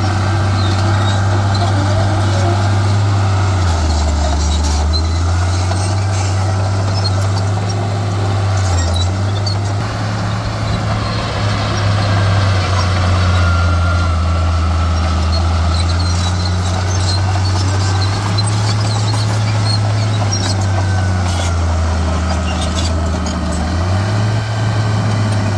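Heavy diesel earthmoving machinery running with a loud, steady low engine drone. The pitch drops and climbs back several times, and short knocks come through now and then.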